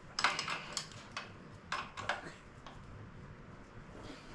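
Metal hand tools clinking and tapping against metal fittings as wrenches work on fuel-line connections: a quick cluster of sharp clicks in the first second, then a few scattered taps.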